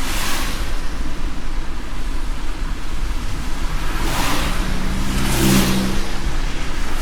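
Moving car on the road: a steady low rumble, with three brief hissing whooshes and a short hum swelling up about five seconds in.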